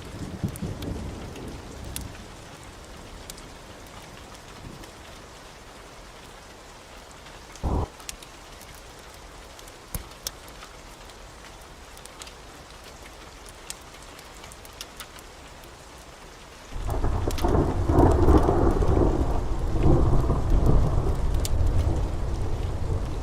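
Steady heavy rain with thunder: a low rumble dies away in the first two seconds, a short deep thump comes about eight seconds in, and a long, loud rumble of thunder breaks in suddenly about seventeen seconds in and carries on.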